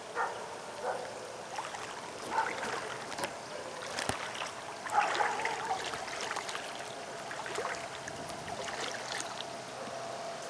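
Floodwater splashing and sloshing in irregular bursts, with a faint steady tone in the second half.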